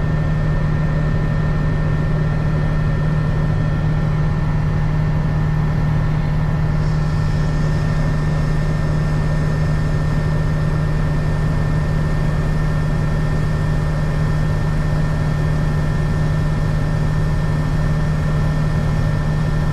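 Case IH 2388 combine running steadily while harvesting corn, heard from inside the cab as a constant low drone with steady overtones. A faint higher hiss joins about a third of the way through.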